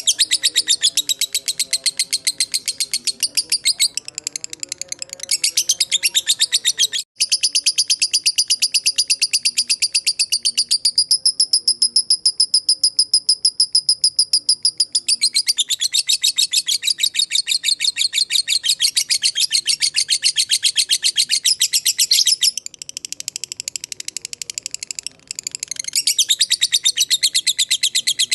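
Lovebird singing its long, rapid chattering trill ('ngekek panjang'): fast, high-pitched notes repeated without pause, stopping dead for a moment just after seven seconds and briefly again near 25 seconds.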